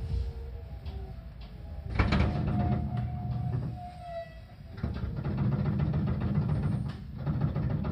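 Seibu 4000 series electric train heard from inside the car: a low rumble of wheels on rail with rapid clacking. A thin squealing tone comes in about two seconds in and fades a couple of seconds later, with a short lull just after.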